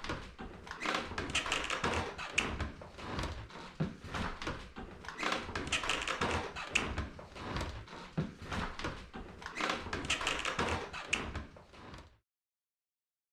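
Bird-attack sound effect: a dense, continuous clatter of rapid taps and knocks, as of birds pecking and striking, which cuts off suddenly to silence about twelve seconds in.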